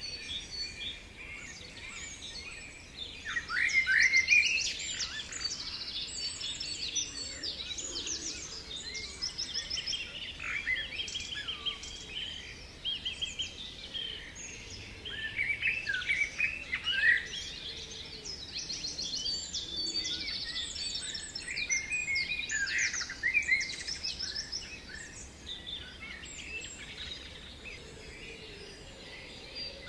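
Several songbirds singing at once: a busy, overlapping chorus of chirps, rapid trills and sweeping whistles.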